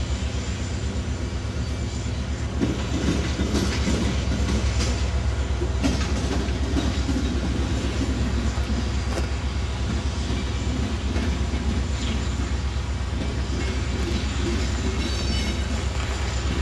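Empty CSX hopper cars rolling slowly past, their wheels clattering rhythmically over rail joints from a couple of seconds in, with a few sharper clacks. A steady low diesel drone from the EMD locomotive runs underneath, and a brief faint high wheel squeal comes near the end.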